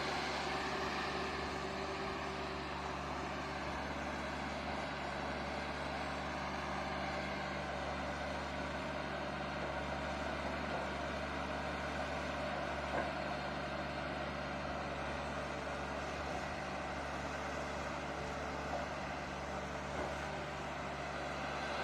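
The diesel engine of a 2009 Caterpillar D3K LGP bulldozer running at a steady speed.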